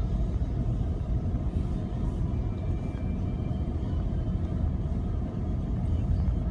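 A car driving slowly on a snow-covered road, heard from inside the cabin: a steady low rumble of engine and tyres.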